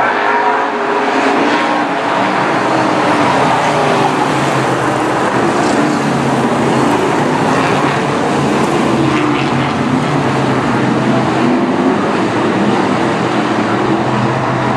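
A pack of BriSCA F1 stock cars racing, their V8 engines running hard, several engine notes overlapping and rising and falling in pitch as the cars accelerate and lift.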